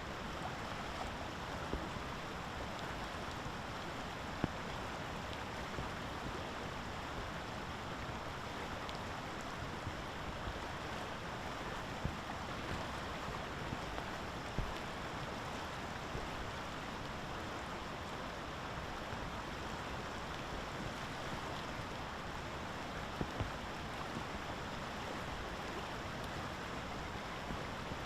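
Steady hiss of falling rain, with a few faint sharp ticks scattered through it.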